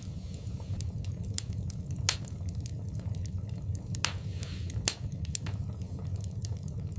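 Wood fire burning in a fireplace: a low steady rumble of the flames with irregular sharp crackles and pops, the loudest about two and five seconds in.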